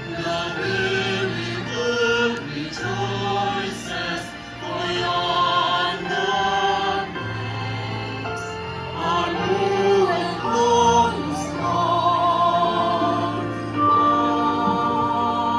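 Choir singing a slow hymn over instrumental accompaniment, the voices holding long wavering notes over a steady bass line.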